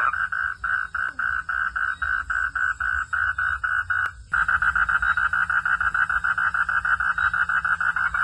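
A frog calling in a fast, even train of pulses. It breaks off briefly with a click about halfway through, then resumes a little faster.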